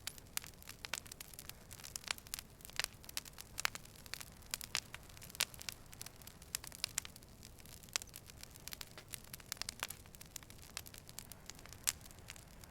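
Campfire crackling: irregular sharp pops and snaps, several a second, over a low steady hiss of burning.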